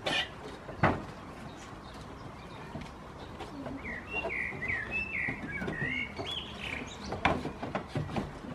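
A small bird chirping a quick run of short rising and falling notes through the middle, with sharp knocks from two goat kids butting heads and stamping on a wooden bench: two loud knocks near the start and a clatter of them near the end.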